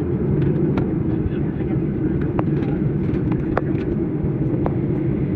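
Steady low noise of a passenger plane's engines and airflow heard from inside the cabin, with a few faint light clicks over it.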